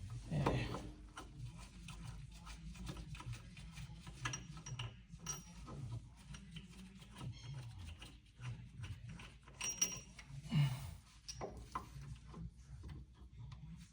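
Scattered light clicks, knocks and rubbing from hands and tools working on a brake assembly, with a louder knock about half a second in and another near the end.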